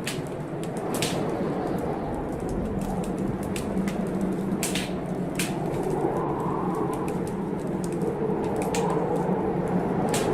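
Wood fire crackling in a fireplace, with frequent sharp snaps and pops, over heavy blizzard wind blowing steadily with a wavering pitch.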